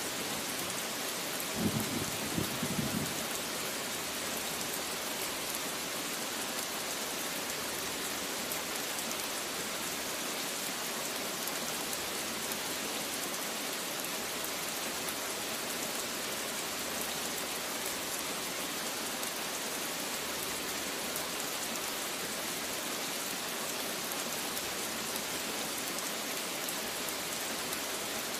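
Steady rain, an even hiss. About two seconds in there is a brief cluster of low thuds.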